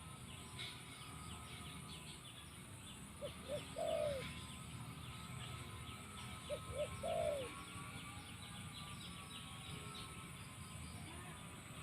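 Spotted dove cooing twice, each phrase two short notes followed by a longer falling coo. Faint chirps of small birds run underneath.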